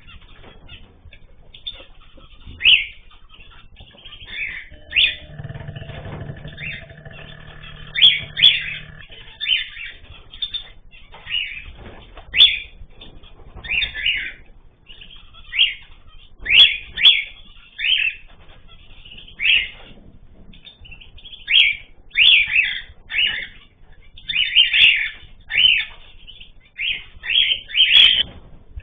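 Ornamental cage birds chirping: many short, sharp calls, repeated every second or so with little pause.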